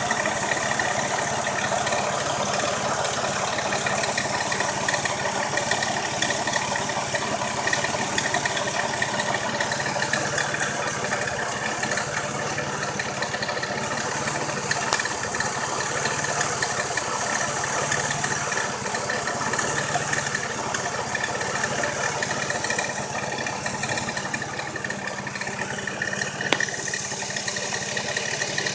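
Engine idling steadily, with a steady high-pitched whine riding over it: the engine noise that the owner is showing.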